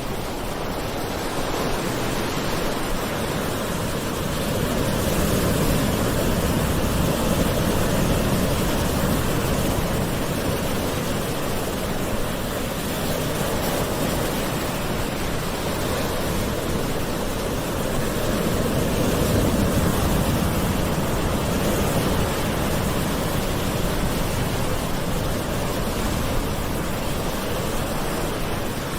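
Gentle ocean surf: a steady wash of water that swells twice as waves roll in and recede.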